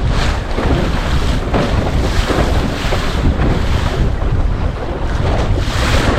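Gusty wind buffeting the microphone with a heavy rumble, and waves splashing against the hull of a Laguna-Kombi+ centreboard dinghy sailing close-hauled, in repeated hissing surges every second or so.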